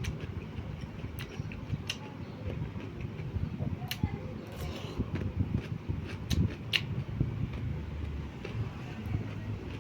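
Close-miked eating: chewing of noodles and rice, with a low, continuous rumble and several sharp clicks.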